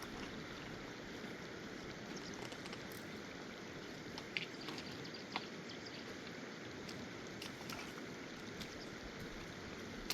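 Steady rush of a fast-flowing mountain river, with a few sharp ticks over it, the clearest about four and a half and five and a half seconds in.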